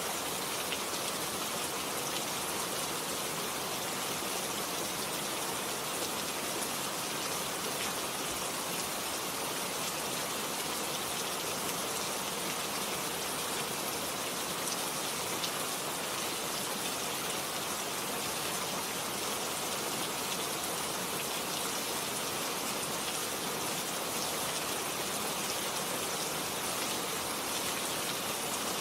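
Steady rain falling: a dense, even hiss with fine pattering of individual drops.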